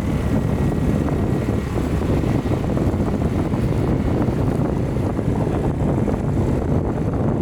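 Restored 1989 Hyosung motorcycle's engine running steadily, with wind buffeting the microphone.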